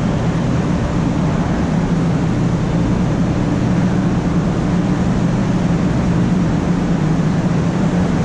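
Steady running noise inside a 500 series Shinkansen car: a constant rumble with a low, even hum underneath.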